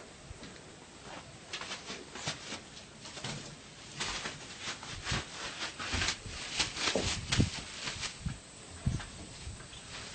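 Baghdadi pigeons moving about in their loft: irregular light clicks and knocks that come thicker in the middle stretch.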